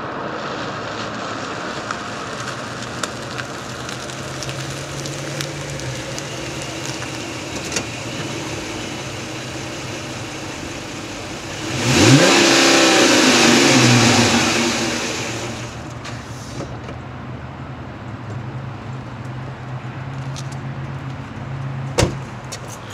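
2008 Dodge Charger's 3.5-litre V6 idling through a stock Daytona muffler and Blastin' Bob's resonators, then revved hard once about twelve seconds in: the pitch climbs quickly, holds loud for about three seconds, and drops back to idle. A single sharp click near the end.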